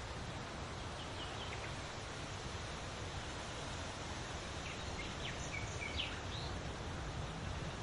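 Outdoor ambience: a steady rushing noise bed with a few short, high bird chirps, a small group about a second in and a busier cluster about five to six seconds in.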